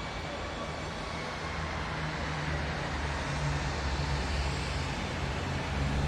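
Steady rumble and hiss of a moving vehicle, with a low hum underneath, slowly getting louder.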